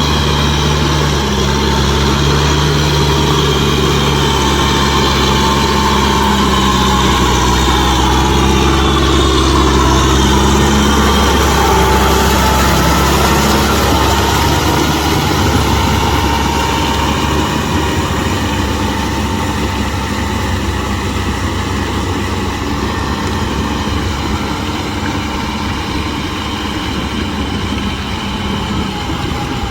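Kubota M6040SU tractor's four-cylinder diesel engine running steadily, with a whine that drifts in pitch; the engine note shifts about halfway through and the sound eases off a little toward the end.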